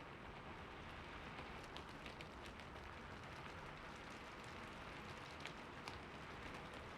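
Heavy rain falling steadily, with scattered close drops ticking sharply.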